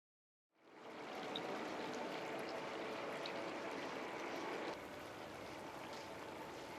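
Steady rushing outdoor background noise, like running water or distant traffic, fading in about half a second in, with a few faint high chirps over it and a small drop in level about five seconds in.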